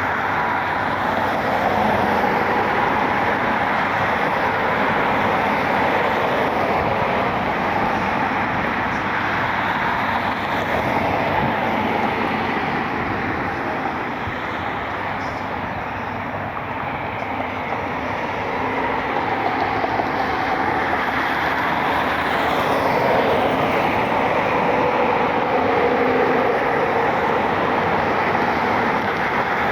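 Jet airliner engines running steadily as the aircraft taxis, a continuous rumble and whine that eases a little midway and then builds again.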